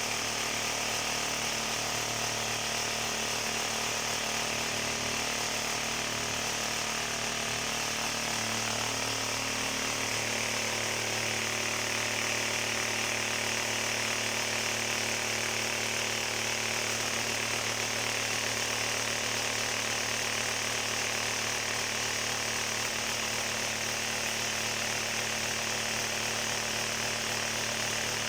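A motor-driven machine or power tool running steadily, a continuous hum with a high hiss; its tone shifts slightly about nine seconds in.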